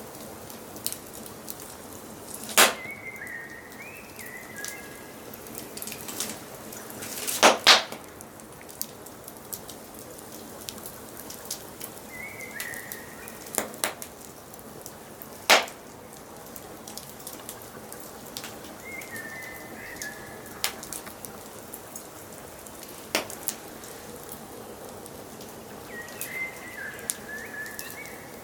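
Wood fire crackling with a steady patter of small pops and a few louder snaps. A songbird sings a short chirping phrase four times in the background, every six to seven seconds.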